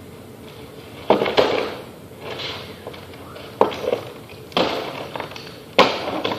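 About five sharp knocks, irregularly spaced, each followed by a brief rustling scrape.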